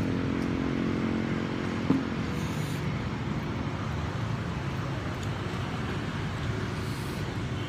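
Steady low rumble of road traffic. An engine hum fades out about two seconds in, with a single sharp click at about the same point.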